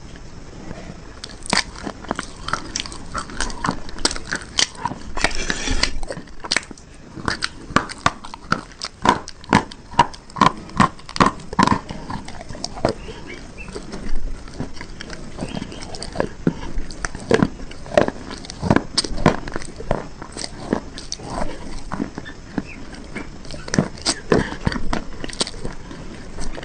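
Close-up biting and crunching into hard, brittle bars, with irregular sharp cracks as pieces snap off and get chewed.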